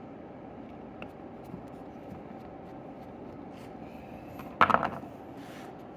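A brief metallic clink a little past two-thirds of the way through, from small carburetor parts and a tool being handled on a workbench while jets are removed, over a steady low background hum.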